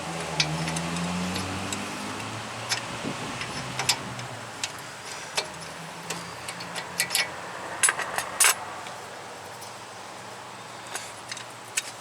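Scattered light metallic clicks and taps of hand tools and parts on a truck's front suspension, over a low steady hum that fades gradually over the first several seconds.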